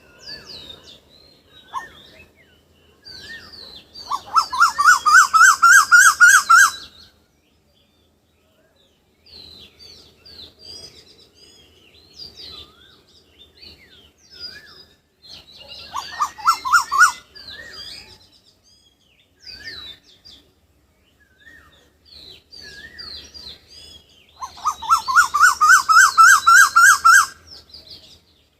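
Wild birds singing: one bird repeats a loud, fast phrase of rapid rising notes three times, while other birds chirp softly in between.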